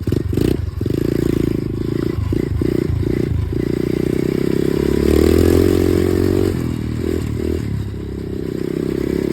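Automatic dirt bike engine running under way, the throttle opening and closing: its note climbs to the loudest point about five to six seconds in, then drops back.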